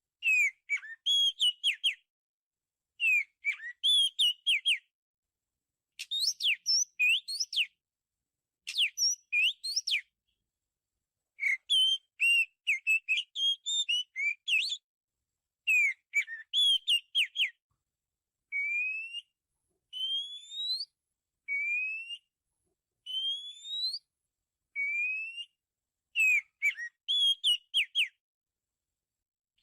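Oriental magpie-robin singing: short phrases of clear, varied whistled notes with pauses between them. In the middle, the phrases give way to a series of single upward-sliding whistles about one every second and a half, before the full phrases return near the end.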